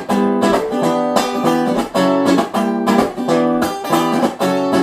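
Acoustic guitar strummed in a steady rhythm, chords ringing between the strokes: an instrumental break between the chorus and the next verse of a song.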